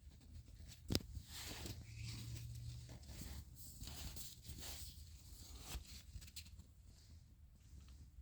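Generator air filter and plastic air-cleaner parts being handled and fitted by hand: a sharp click about a second in, then soft rustling and scraping, with another click near the end.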